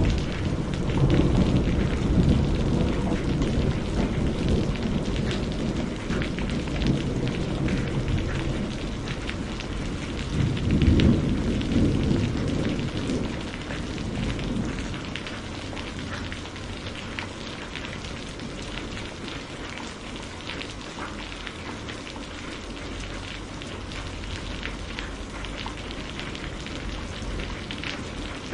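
Steady rain falling, with low rolling thunder swelling in the first few seconds and again about ten seconds in, loudest around eleven seconds; after that only the steady rain.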